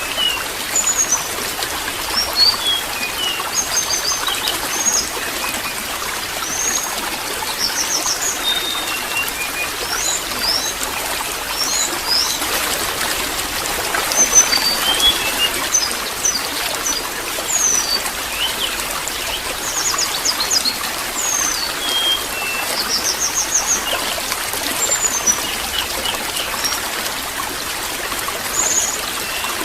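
Water trickling steadily, with small birds chirping over it in many short, high calls throughout.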